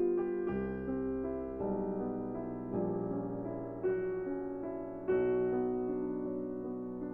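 Background piano music: slow, gentle chords and held notes changing every second or so.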